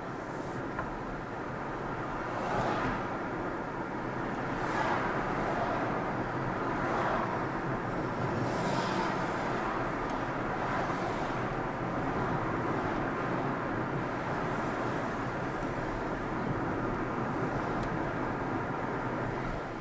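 Car driving along a road, with steady engine and tyre noise. The noise swells louder several times in the first half.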